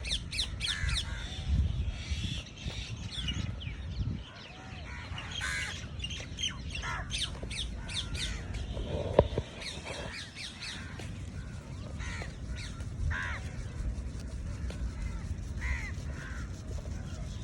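Many birds calling and chirping together, short overlapping calls throughout, over a steady low background rumble; one sharp click about nine seconds in.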